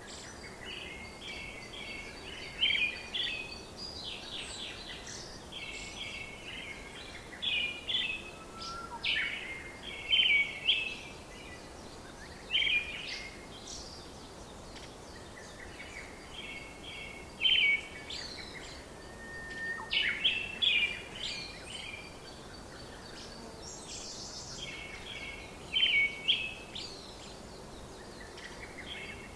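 Songbirds chirping in short bursts of quick repeated notes, with now and then a brief whistle, every second or two over a steady background hiss.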